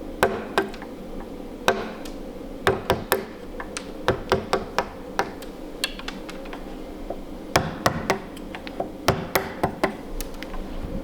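Sharp wooden taps and knocks at an uneven pace, some in quick pairs: protruding wooden screw plugs in a Tasmanian myrtle table being knocked off flush.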